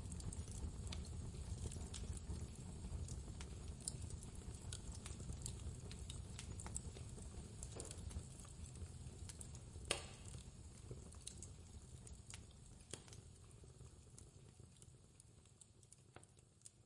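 Wood fire crackling with scattered sharp pops, one louder pop about ten seconds in, over a steady low rumble of blizzard wind. The whole sound fades gradually toward the end.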